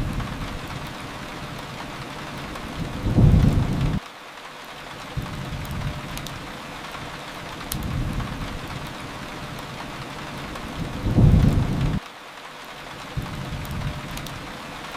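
Steady rain with low rolls of thunder swelling every few seconds; the two loudest rumbles, about 3 and 11 seconds in, cut off suddenly.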